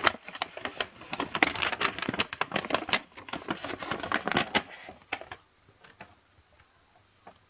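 A paper instruction sheet being unfolded and flipped over by hand: dense crackling and rustling for about five seconds, then a few faint clicks.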